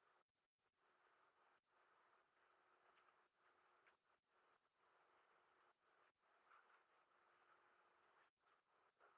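Crickets chirping faintly in a steady, even rhythm of pulses, over a soft night-time insect hum.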